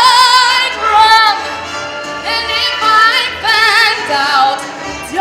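A woman singing a Broadway show tune with strong vibrato on her held notes, over backing music.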